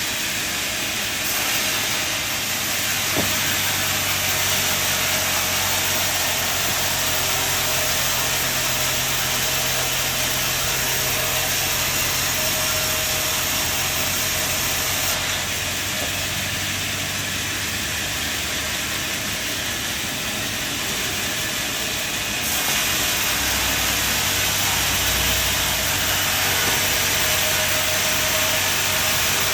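Sawmill machinery running: a steady hissing whir over a low motor hum. The sound shifts abruptly about a second in, near the middle and about two-thirds through.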